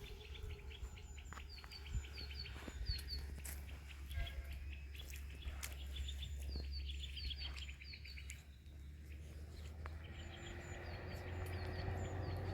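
Small birds chirping, with short high chirps repeated in quick clusters over a steady low rumble. The rumble grows louder near the end.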